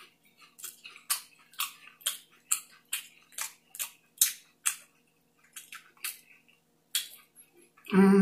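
Close-miked chewing of a mouthful of breaded, pan-fried snow crab: short crisp wet smacks, about two a second, thinning out after about five seconds. A short hummed 'mm' near the end.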